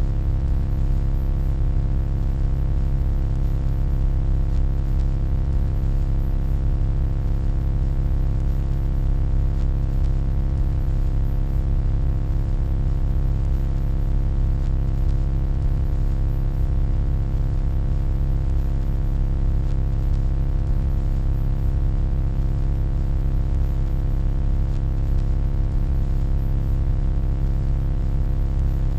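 Steady electronic hum: a deep, constant drone with a stack of fainter steady tones above it, unchanging in pitch and level throughout.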